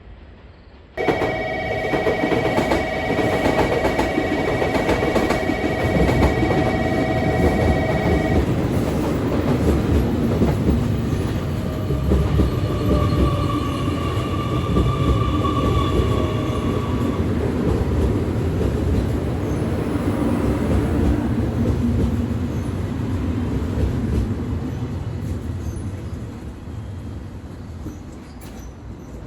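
Electric train running, a steady rumble with high steady whining tones, that starts abruptly about a second in and fades away near the end.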